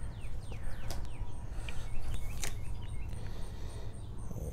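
A bird chirping in quick, repeated falling notes over a steady low outdoor rumble, with two sharp clicks about one and two and a half seconds in.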